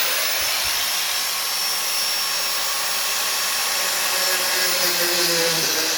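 Electric grinder running steadily under load, grinding into the metal of the mower, with a high whine over harsh grinding noise.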